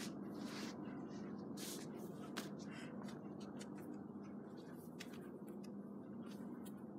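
Quiet room tone with a steady low hum and faint scattered rustles and small ticks.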